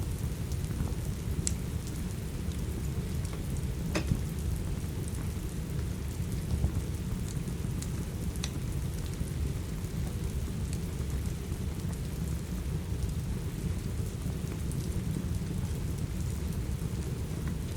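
Steady rain with a low, constant rumble underneath. A handful of sharp, separate crackles from a wood fire pop through it, the clearest about four seconds in.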